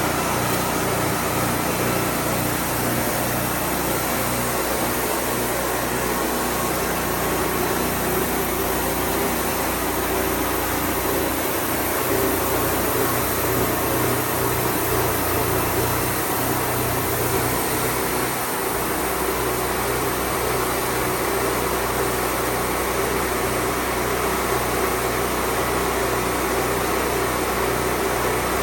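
Wood-Mizer band sawmill running steadily, its engine giving a constant low hum under a loud, even mechanical noise.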